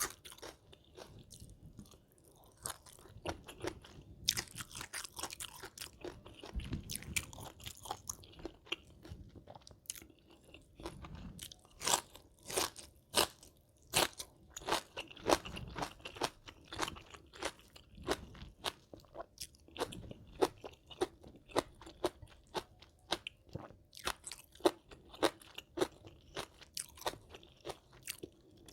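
Close-miked chewing of crunchy food: a rapid, uneven run of sharp crunching bites that grows busier after the first few seconds.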